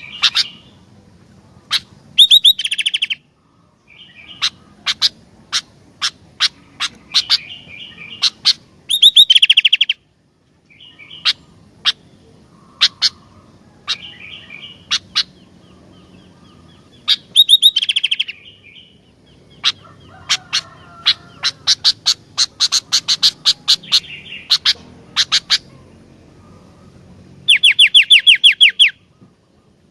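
Sooty-headed bulbul (kutilang) singing: sharp single chirps and short phrases, broken by several loud, fast trills of about ten notes a second.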